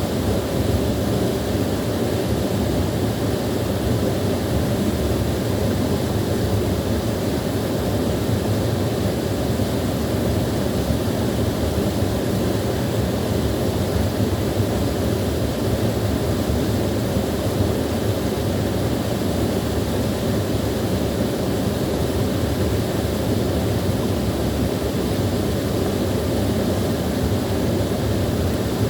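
Small waterfall rushing steadily, a constant deep splashing roar of water with no breaks.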